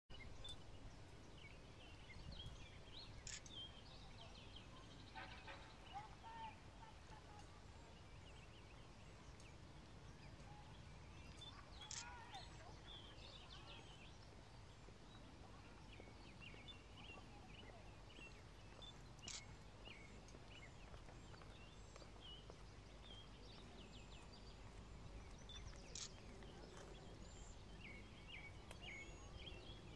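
Faint birdsong: many small birds chirping, with one sharper, louder call repeating about every seven seconds, over a low outdoor rumble.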